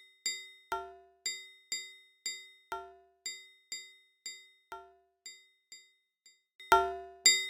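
Metronome ticking at about two beats a second, each tick a short ringing ding, with every fourth beat accented by a heavier, lower ring. The ticks fade away in the middle, then return loud about seven seconds in.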